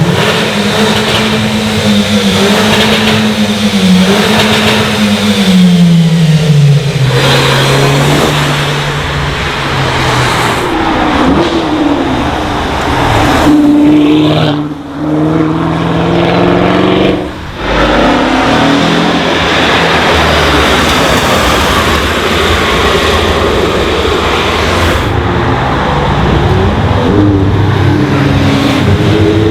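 Engines of modified cars running loud and accelerating, with the engine pitch falling and then climbing again as they rev. Two short drops in level about halfway through.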